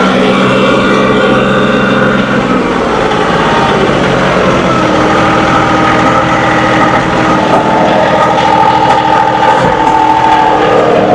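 John Deere 2038R compact tractor's three-cylinder diesel engine running steadily, its pitch shifting a couple of times as the engine speed changes.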